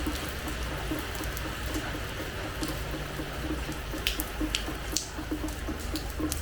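Rain falling on a hard terrace floor: a steady hiss with individual drops splashing and tapping irregularly, a few louder drops about four and five seconds in.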